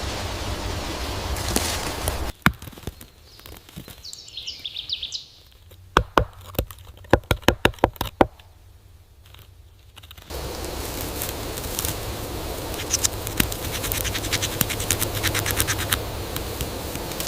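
Outdoor nature sound with a steady hiss of wind and leaves. In a quieter stretch there is one short high bird chirp, then a quick run of about a dozen sharp taps. The steady outdoor sound returns with many small scratches and ticks.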